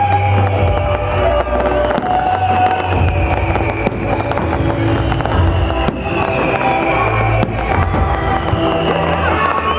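Fireworks exploding with sharp bangs every second or two, over music playing throughout.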